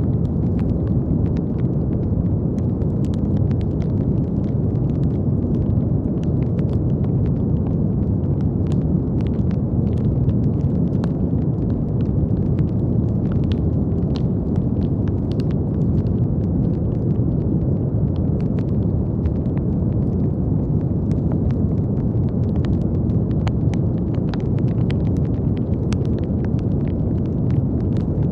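Brown noise: a steady, deep rushing hiss weighted toward the low end, with faint scattered crackles and clicks in the higher range.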